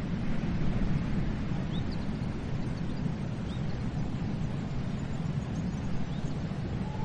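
Sea surf washing steadily, with a deep, even rumble. A few faint, short, high bird chirps come through it.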